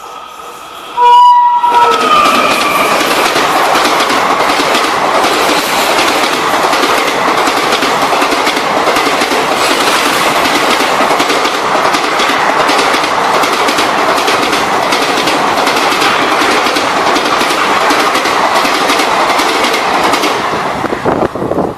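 A train passing close by: its horn sounds and cuts off about two seconds in, then a loud rush with the wheels clattering over rail joints for about twenty seconds, dying away near the end.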